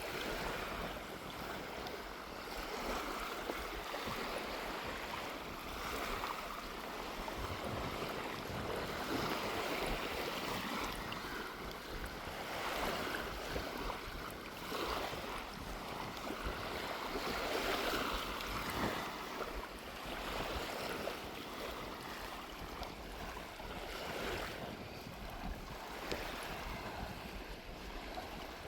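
Small waves washing and breaking on a sandy shore, swelling and easing every few seconds, with sea breeze rumbling on the microphone.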